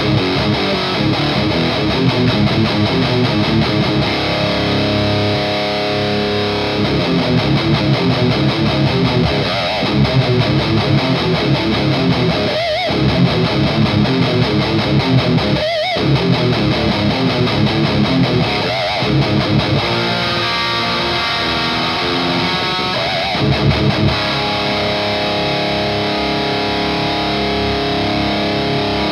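Distorted electric guitar played through the Skull Driver V2 Evolution overdrive pedal: busy riffing, then held chords left ringing in the last third.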